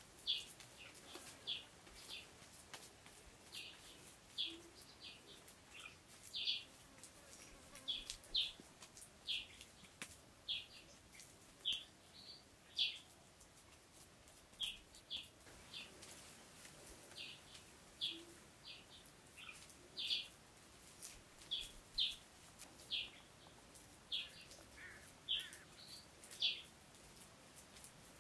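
A bird chirping: short, high chirps repeated irregularly, about one or two a second.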